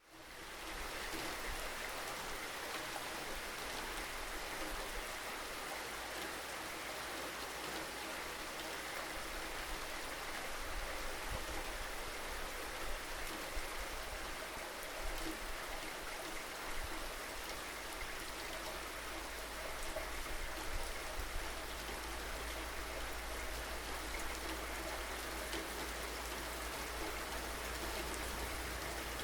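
Steady rainfall, an even hiss of drops with no let-up. It fades out briefly and comes straight back in at the very start, like a join in a looped recording.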